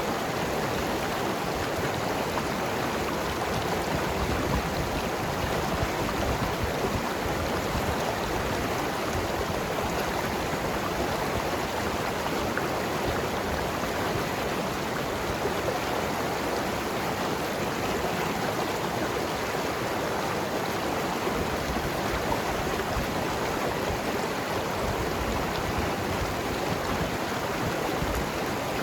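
Mountain river flowing and gurgling over rocks, a steady rushing wash of water.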